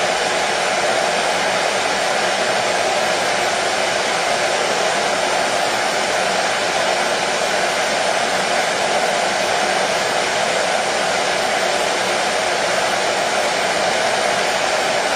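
Hair dryer running steadily on one setting: an even rush of blown air over the motor's hum, unchanging in pitch and loudness throughout.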